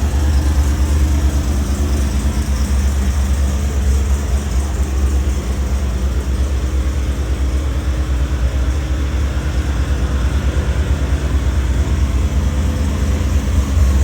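A 1984 Chevrolet Corvette C4's V8 engine idling steadily.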